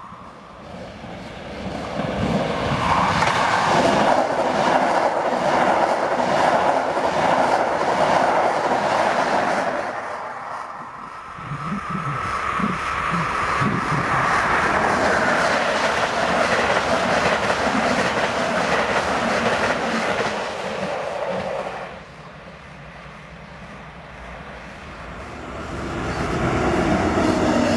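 Regional trains hauled by Class 112 electric locomotives passing by on the rails: a loud rush of wheel noise with clickety-clack. The noise swells and fades twice as two trains go past one after the other, drops to a lull, then rises again near the end as a third train approaches.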